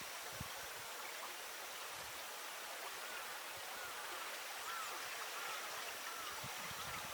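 River water flowing steadily with an even rushing hiss, while a bird gives about five short, faint chirping calls in quick succession through the middle of the stretch.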